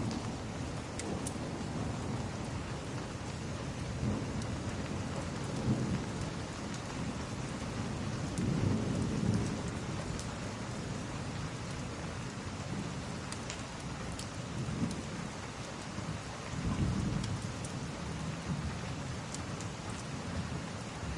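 Steady rain with low rumbles of thunder swelling about eight seconds in and again past the middle. A scattering of sharp crackles from a log fire sounds over the rain.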